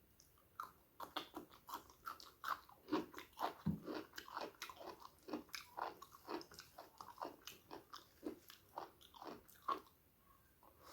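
Close-miked mouth sounds of a person eating pork curry with rice: quick wet smacks and clicks of chewing, about three a second, starting about half a second in.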